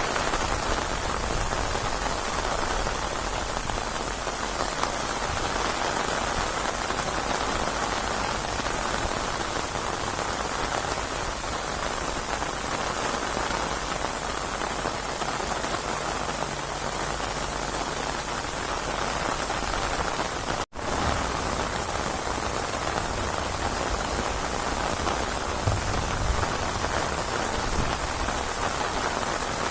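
Steady rainstorm: heavy rain falling and pattering on surfaces. The sound drops out for a split second a little past two-thirds through.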